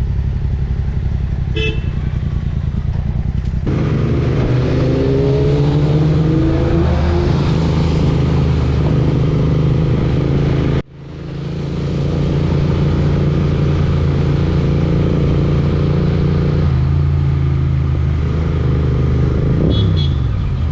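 BMW S1000RR inline-four engine running under way through traffic, with wind noise on the helmet camera. The engine pitch climbs as the bike accelerates about four seconds in. The sound drops out for a moment around the middle. Short vehicle horn toots sound near the start and again near the end.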